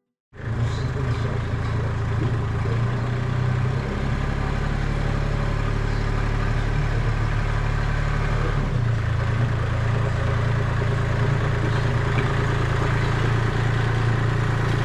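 Pressure washer running steadily, its motor note shifting twice, about four and nine seconds in.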